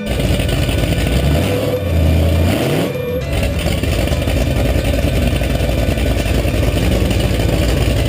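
Loud truck engines running and revving, with a rising rev about a second or two in, over a dense wash of noise.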